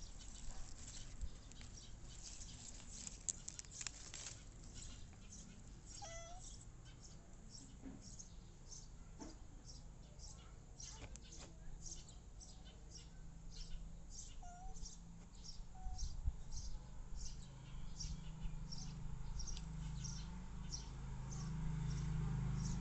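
Faint outdoor ambience of small birds chirping, short high chirps repeating a few times a second, with a low rumble building near the end.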